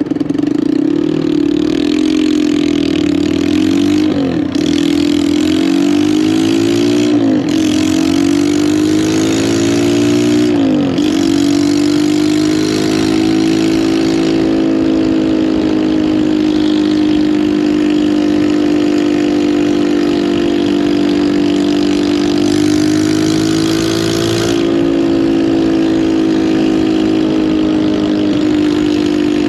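Lifan KP200's 200cc engine pulling the motorcycle away, revving up and dropping in pitch three times as it shifts up through the gears, then running at a steady cruise.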